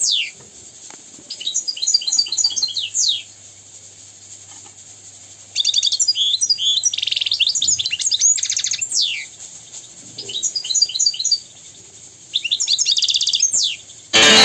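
European goldfinch singing: four phrases of quick, twittering chirps and trills, with gaps of a second or two between them. Music cuts in at the very end.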